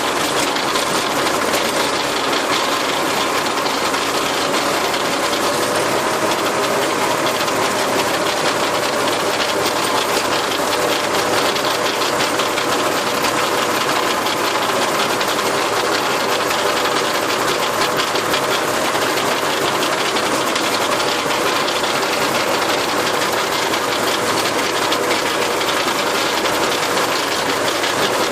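Tractor engine running steadily while driving a rotary tiller, with a rattling, knocking mechanical noise.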